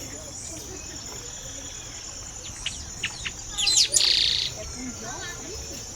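Birds calling: a few short, sharp chirps about three seconds in, then a loud harsh, rasping call about four seconds in, over a steady high-pitched buzz.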